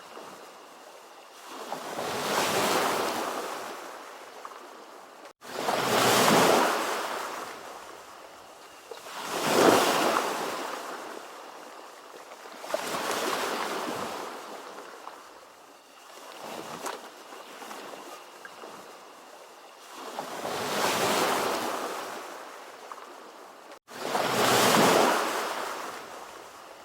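Ocean waves breaking and washing up a shore, one every three to four seconds, each surge swelling and then fading. There are two sudden, momentary dropouts in the sound.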